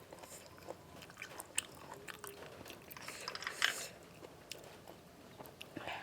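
Close-up eating sounds: a person chewing and crunching food, with scattered small clicks and mouth smacks, and a louder noisy burst about three and a half seconds in.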